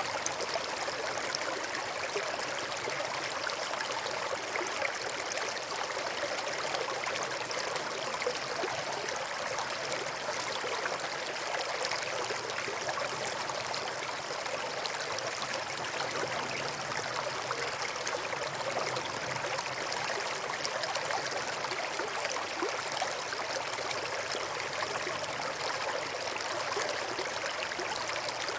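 A small stream running steadily, its water trickling and babbling without a break.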